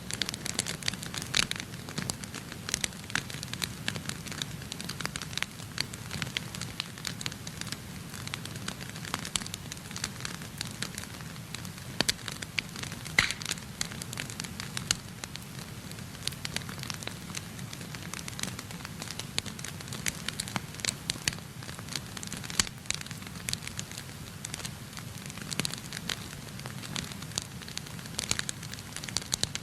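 Wood fire burning in a fireplace, crackling with many irregular sharp pops over a steady low rush of flame, with a couple of louder pops about midway.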